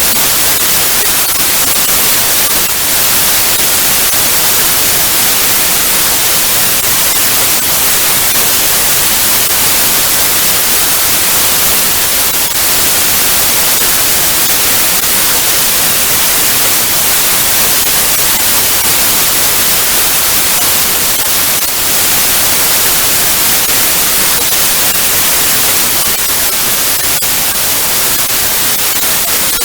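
Loud, steady TV static: an even hiss, brightest in the treble, with faint occasional crackles.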